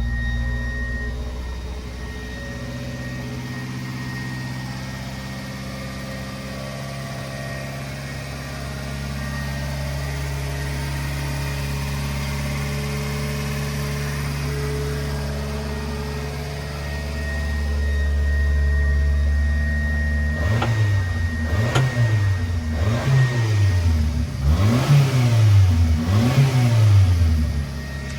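1997 Subaru Sambar kei truck's small four-cylinder engine running steadily. In the last several seconds it is revved about five times in quick succession, each blip rising and falling in pitch.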